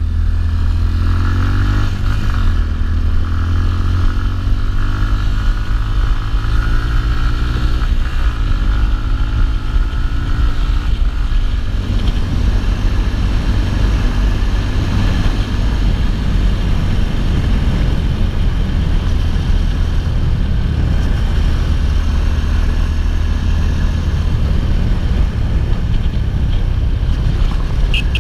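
Yamaha XTZ 250's single-cylinder four-stroke engine running continuously and loud, its pitch climbing several times in the first ten seconds or so as it is revved.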